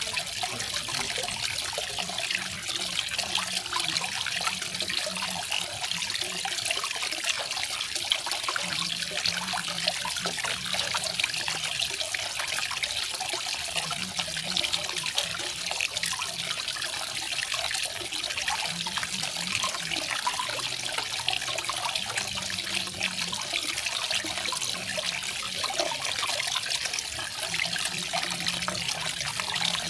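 Garden waterfall: water splashing and falling steadily, an even hiss with fine spatter that does not change.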